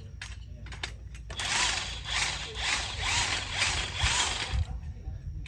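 Hand ratchet clicking in a series of strokes, about two a second, starting a little over a second in and stopping near the end, as parts are worked on during a trailside axle swap.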